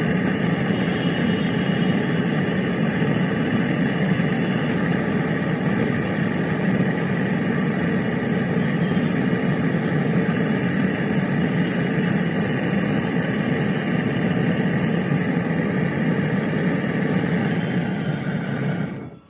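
A motor-driven machine running steadily with an even hum, cutting off abruptly at the very end.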